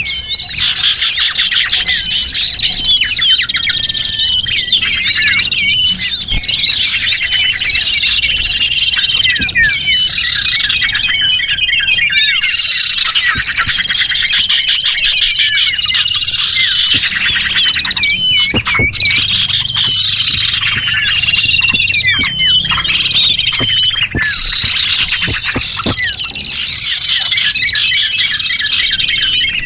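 A dense chorus of small songbirds chirping and twittering, many calls overlapping, with high drawn-out trilling notes recurring every few seconds. This is a bird-lure recording made to draw small wild birds in.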